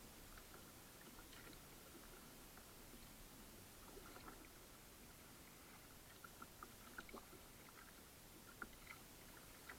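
Faint kayak paddling: scattered small drips and light splashes from the paddle over a low hiss, close to silence.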